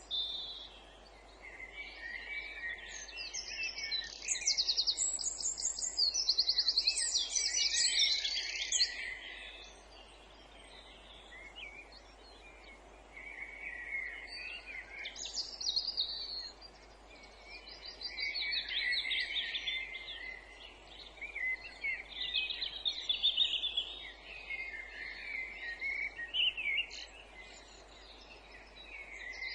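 Several songbirds singing in woodland, with overlapping phrases of rapid trills and whistles. The song comes in bouts, quieter for a few seconds about a third of the way in, and a faint steady hiss runs underneath.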